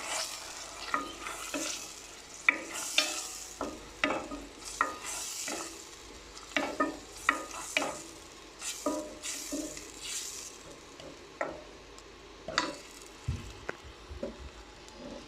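A utensil stirring Brussels sprouts in a pan of hot olive oil: it clinks and scrapes against the pan at irregular intervals over a light sizzle. The strokes thin out near the end.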